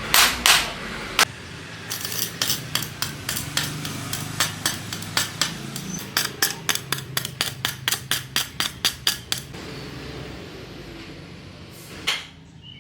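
Hammer blows on metal: a few heavy strikes, then a long run of lighter, quick taps, about three or four a second and speeding up slightly. After a short lull, one more knock comes near the end.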